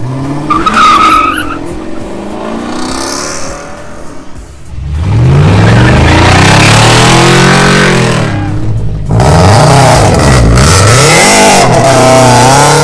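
A car doing a burnout: the engine revs hard while the tyres spin and squeal. After a quieter opening, two long, loud bursts of high revs follow, with a short drop between them, and the engine pitch swings up and down in the second burst.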